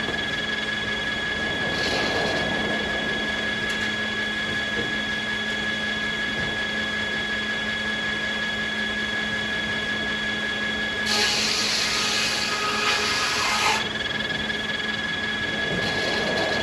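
Sawmill machinery running steadily with a constant whine. About eleven seconds in, a louder, hissing burst of noise lasts nearly three seconds and then stops.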